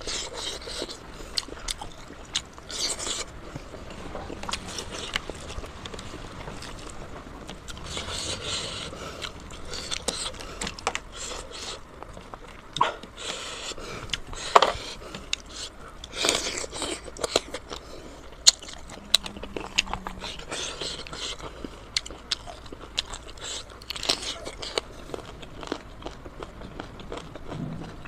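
Close-up eating sounds of pork leg and pork nose being bitten and chewed, with many irregular sharp clicks and short bursts of mouth noise.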